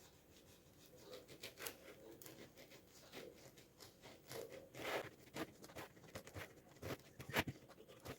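Knife cutting lengthwise through a homemade cake, heard as faint, irregular short scrapes.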